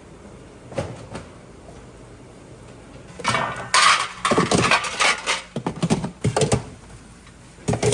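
Kitchenware clattering: after about three seconds of quiet, a busy run of knocks and clinks from dishes and utensils being handled, then a single sharp knock near the end.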